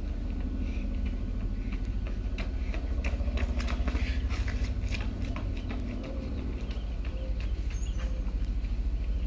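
Wind buffeting the microphone: a steady, fluttering low rumble, with a cluster of light clicks and taps about three to five seconds in.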